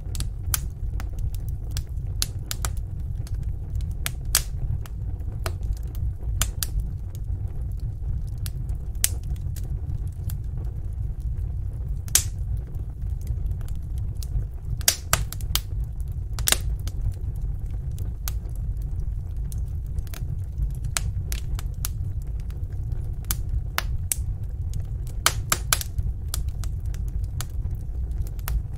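Wood fire burning in a fireplace: irregular sharp crackles and pops over a steady low rumble, with a few louder snaps.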